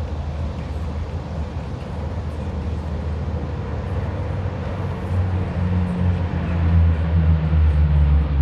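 Four turboprop engines and propellers of a Lockheed C-130J Super Hercules droning steadily, getting louder from about five seconds in.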